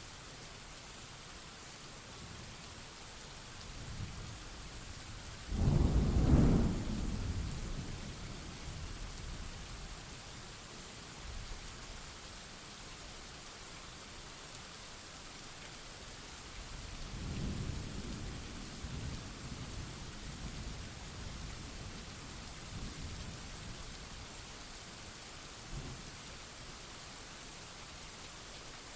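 Steady rain falling during a thunderstorm. A loud crack of thunder comes about five seconds in and rumbles away over several seconds, and a fainter roll of thunder follows past the middle.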